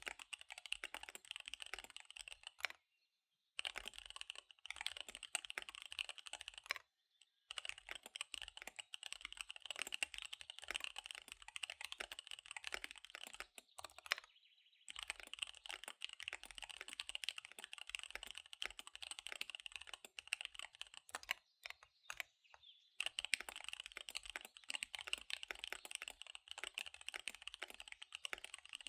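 Fast typing on a KBD75 V3 mechanical keyboard with SP-Star Dark Magic Girl tactile switches and DSA keycaps: a rapid, dense patter of keystrokes broken by a few brief pauses.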